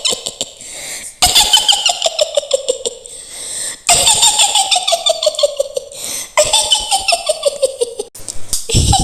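A woman's high, rapid witch's cackle, the Mak Lampir laugh, repeated in several bursts. Each burst slides down in pitch.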